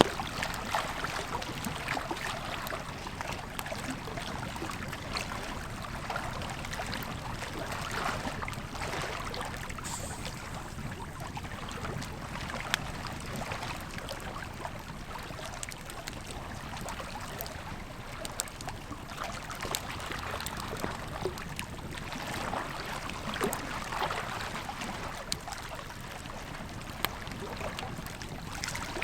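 Campfire crackling with scattered pops, a few of them sharper and louder, over the steady rush of a flowing river.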